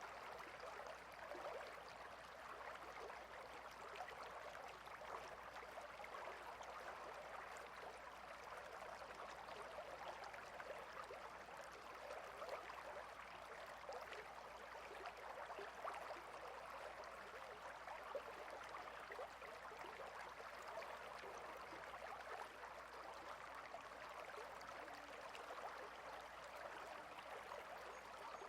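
A small stream flowing and gurgling steadily, a soft even rush of water with faint bubbling.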